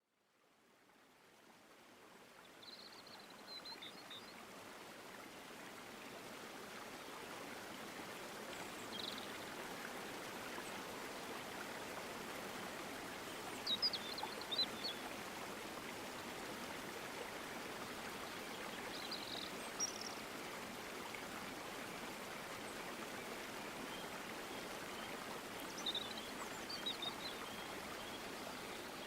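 Flowing stream water, a steady rush that fades in over the first few seconds, with a bird chirping briefly about five times over it.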